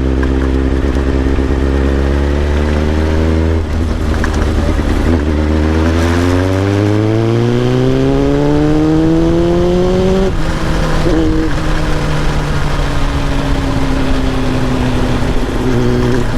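Kawasaki ZX-7R inline-four engine under way, heard from a microphone near the exhaust: steady at first, then a break in the note a few seconds in, a long climb in revs under acceleration, a sudden drop about two-thirds through, and steady revs after that.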